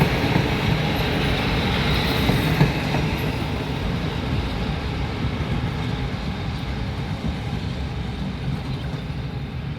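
Train running on the rails at a station, a steady rumble that slowly grows quieter.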